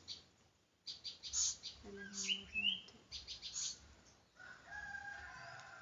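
Birds chirping: short high chirps, a short rising call a little after two seconds, and a steady held call in the last second and a half.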